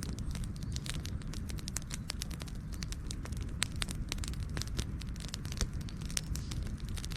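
Wood fire crackling and popping: many sharp irregular pops over a steady low rumble of flames.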